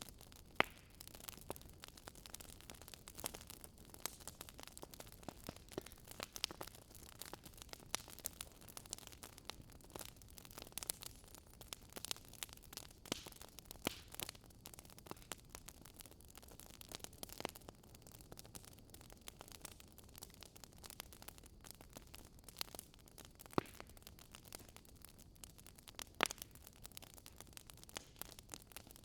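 Wood fire crackling: irregular sharp pops and snaps over a faint steady hiss, with a few louder pops standing out.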